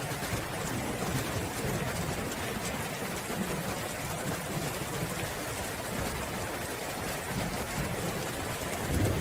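Steady rain falling, an even hiss with a low uneven rumble underneath.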